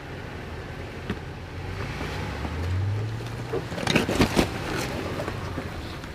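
Toyota 4Runner engine pulling under load, its note rising as it revs up about two seconds in. Just after the four-second mark comes a quick cluster of sharp knocks and crunches, the loudest part, typical of the truck working over rough trail.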